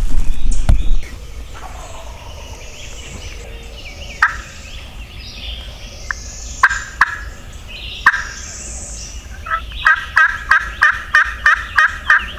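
Turkey yelps: a few single notes, then a run of about eleven evenly spaced yelps at three or four a second near the end, with faint songbirds chirping. The first second holds a loud low rumble of wind or handling on the microphone.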